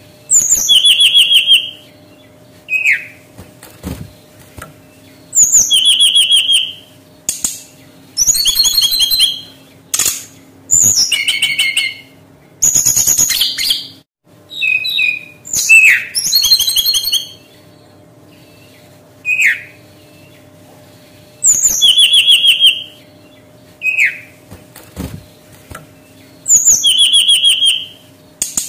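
Brown-chested jungle flycatcher singing: loud phrases of quick, high whistled notes, each about a second long, repeated with short pauses between them, some opened by a single short falling note.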